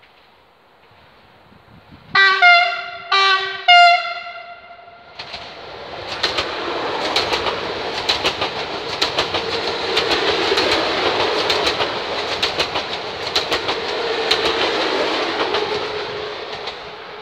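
Passing TER Régiolis regional train sounds its horn in three short blasts, then rushes by with its wheels clicking over the rail joints. The passing noise swells to a peak and fades near the end.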